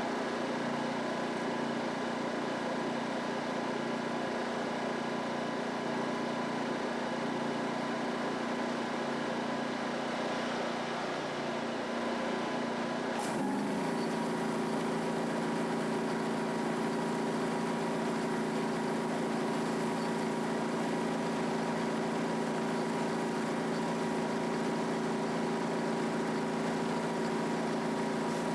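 Pressure washer engine running steadily. About halfway through its note changes abruptly, with a short click, and it runs on slightly louder at a new pitch.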